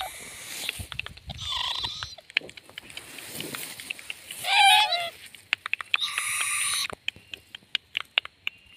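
Baby owl calling: a wavering, warbling call about four and a half seconds in, and a longer noisy screech about six seconds in, among many short clicks.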